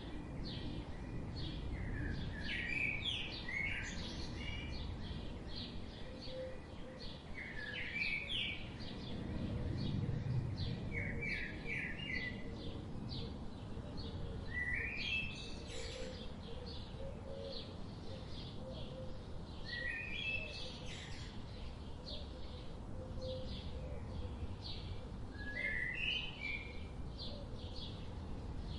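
Wild birds chirping: short quick phrases of a few notes recurring every few seconds, with fainter high chirps in between, over a steady low outdoor rumble.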